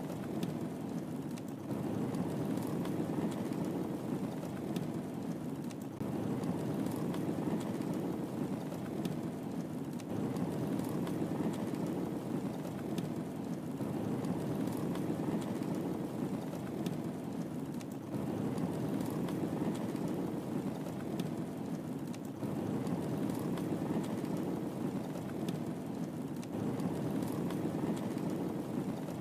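Wood fire burning in a fireplace: a steady low rush of flames with small crackles and pops scattered throughout.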